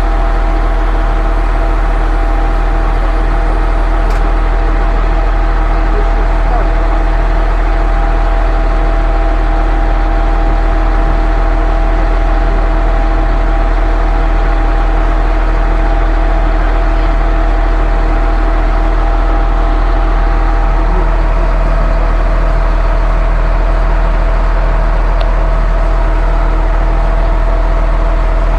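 Truck-mounted concrete pump's engine running steadily: a constant low drone with several unchanging tones above it.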